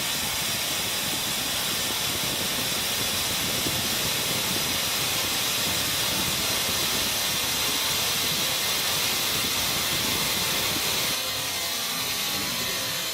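A steady hiss, strongest in the high range, that drops slightly about eleven seconds in.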